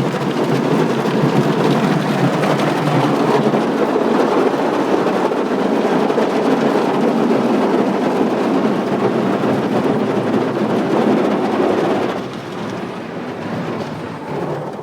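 Automatic car wash machinery working over a car: a loud, steady rush of spray and scrubbing noise that drops off sharply about twelve seconds in.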